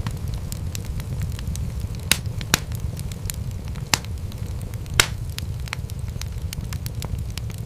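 Wood fire crackling in a fireplace: a steady low rumble of burning flames with scattered sharp pops and snaps, four louder pops coming between about two and five seconds in.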